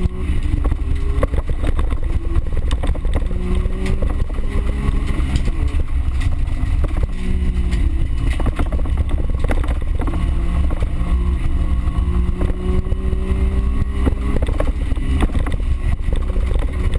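Small car's engine heard from inside the cabin, revving up and down repeatedly through gear changes while racing on a dirt course, with frequent knocks and rattles from the rough surface.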